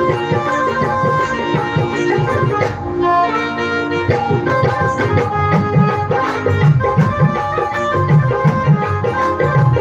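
Instrumental interlude of a Hindi devotional bhajan: a held melody line over steady tabla-style hand-drum strokes, without singing.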